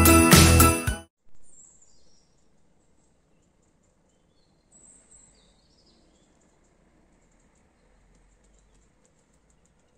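Christmas intro music with jingle bells, cutting off about a second in. After it, near-quiet open air with a few faint, high bird chirps.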